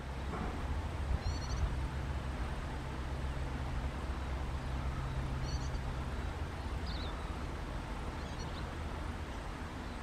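Steady low hum and hiss with a few faint, short, high-pitched bird chirps scattered through; the hum fades about six seconds in.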